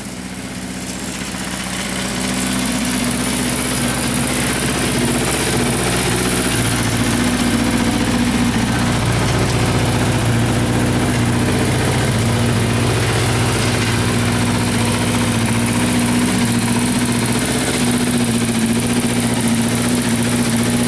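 Honda CB400Four's 408cc air-cooled inline-four engine idling steadily, just after its revs have dropped back from a blip.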